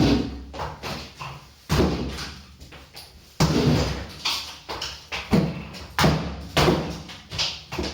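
Repeated heavy blows against a fridge's iced-up freezer compartment to knock the ice loose: about eight knocks at irregular intervals, each with a short ringing decay.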